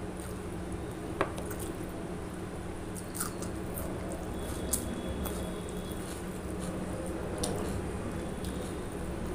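Close-miked eating sounds: chewing and wet squishing of chicken curry and rice eaten by hand, with a few sharp clicks. A steady low hum runs underneath.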